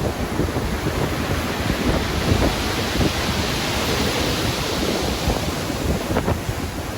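Stormy sea: heavy ocean waves breaking and washing with wind, one surge swelling to its loudest around the middle over a constant low rumble.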